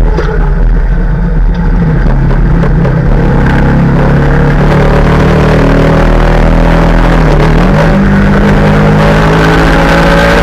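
Yamaha R15 motorcycle's single-cylinder engine running under way, its note steady for most of the time, dipping briefly about three-quarters of the way through and then climbing steadily as the bike accelerates.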